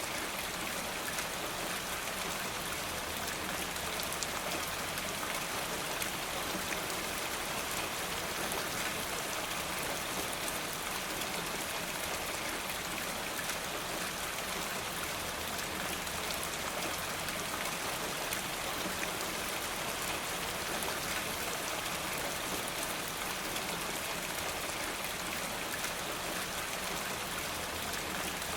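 Steady, even rain falling, with a dense patter of fine drop ticks.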